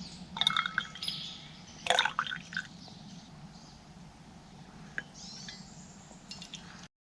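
Birds chirping in short bursts, with a couple of sharp clinks among them about half a second and two seconds in; the sound cuts out abruptly near the end.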